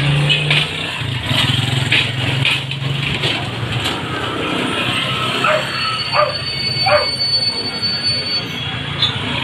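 Street traffic noise: a vehicle engine running with a steady low hum, a thin high-pitched squeal held through the middle, and a few short rising chirps.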